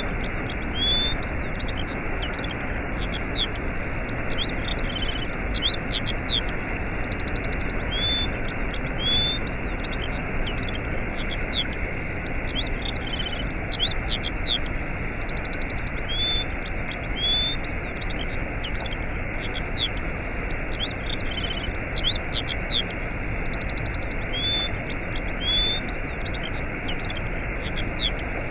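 Steady rushing of a waterfall with many birds chirping over it: short sweeping whistled calls and quick trills, recurring without a break.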